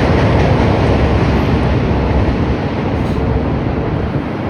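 Chicago 'L' elevated train running past on the rails, a loud, steady rumble that eases slightly toward the end.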